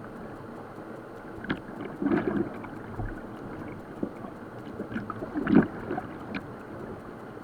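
Steady rush of whitewater river water, with a few short louder splashes and knocks; the loudest comes about five and a half seconds in.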